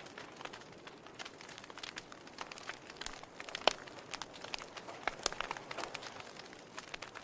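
Wood fire in a fireplace crackling, with irregular sharp pops and snaps over a soft hiss; one louder pop about three and a half seconds in.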